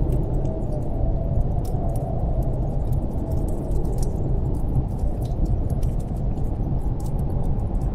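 Snowstorm wind blowing steadily as a deep rumble with a faint wavering howl, while a wood fire crackles with scattered small pops.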